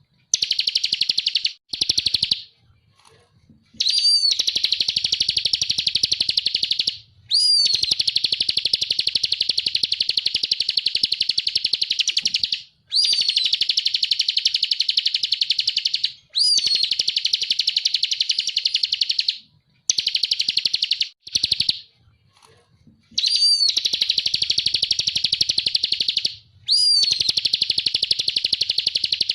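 Ciblek (prinia) singing: long, fast trills of rapidly repeated high notes, each phrase lasting a few seconds and broken by short pauses, some phrases opening with a sharp downward-sweeping note.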